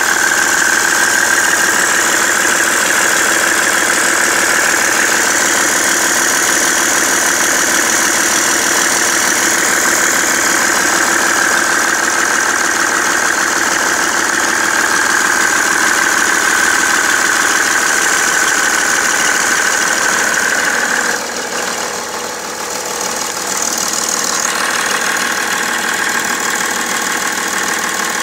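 BMW 330d E91's straight-six diesel engine running steadily with a knocking sound that appeared after its main and EGR thermostats were replaced; the cause is unknown to the owner.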